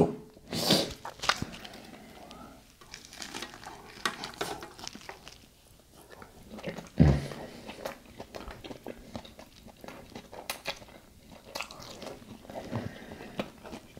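Close-up mouth sounds of a person biting into and chewing a soft fish taco: faint wet chewing with scattered small clicks. A brief louder low sound comes about seven seconds in.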